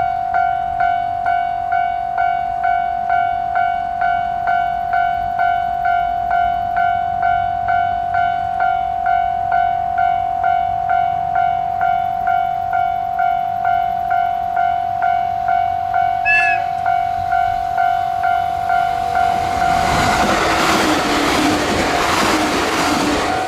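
Level crossing alarm bell ringing steadily with an even pulse, about one and a half strikes a second. About sixteen seconds in a train gives a short blast of its whistle. From about twenty seconds in, the train's rush and wheel noise rises over the bell as it passes.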